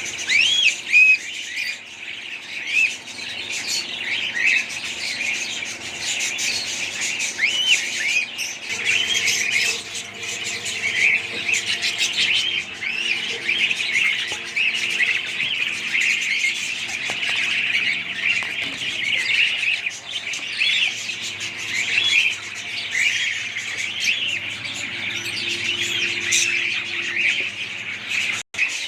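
A flock of budgies chirping and chattering at once: a constant, overlapping stream of short, rapidly rising and falling calls. The sound cuts out for a moment near the end.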